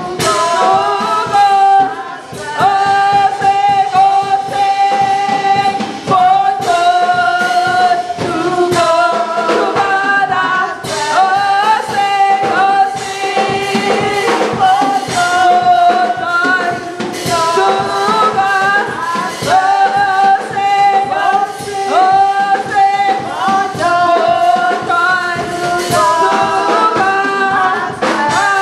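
Gospel choir singing a worship song over live band accompaniment, with sustained sung notes and a regular drum beat.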